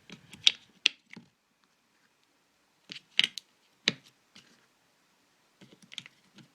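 AAA batteries being pushed into a small plastic speaker's battery compartment: sharp plastic clicks and taps in three short clusters, with pauses between.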